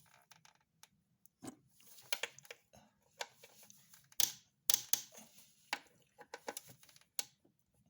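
Hand tool tightening a small 8 mm screw into a plastic intake manifold: a run of irregular clicks and short scrapes. The speaker takes the noise as the sign that the screw is snug and he should stop.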